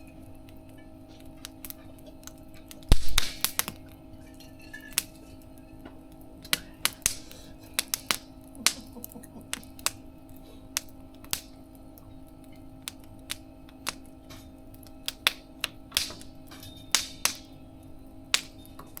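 Wood fire crackling in a mesh fire-pit stove: irregular sharp pops and snaps, the loudest about three seconds in, with more clustered near the end. A steady low hum runs underneath.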